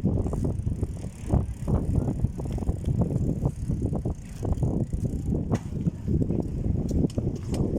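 A bicycle being ridden: a continuous rough rumble and rattle, with a scatter of sharp clicks.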